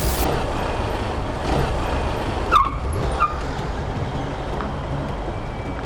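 Road traffic and vehicle engine noise with a steady low rumble, as heard from a motorcycle in traffic. Two short high-pitched chirps come a little past the middle, about half a second apart.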